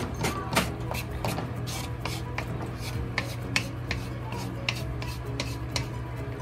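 A spatula scraping and knocking against a steel wok in quick, irregular strokes as chicken pieces and mushrooms are stir-fried, over a steady low hum.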